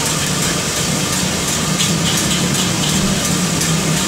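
Martabak telur frying in oil on a flat griddle pan: a steady sizzling hiss over a steady low hum.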